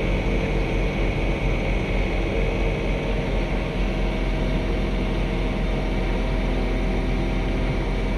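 Diesel engine of a John Deere 3046R compact tractor running steadily under snow-blowing work, a deep hum with several steady tones.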